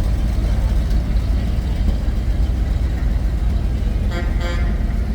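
Steady low rumble of a passing fire truck's engine. Near the end there is a brief pitched sound in two quick pulses.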